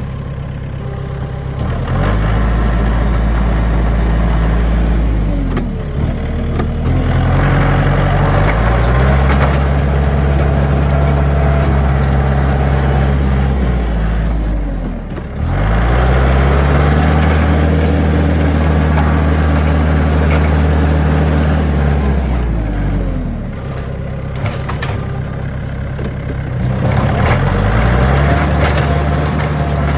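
Compact tractor engine running while plowing snow, its revs rising and falling every several seconds as it works back and forth.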